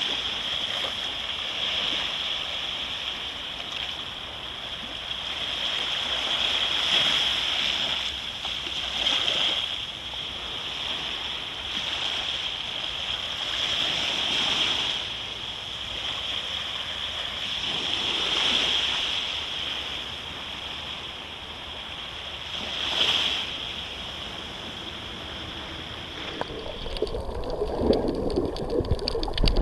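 Sea waves washing onto a beach, a steady hiss that swells with each surge every few seconds. Near the end it turns to a closer, choppier gurgling of water.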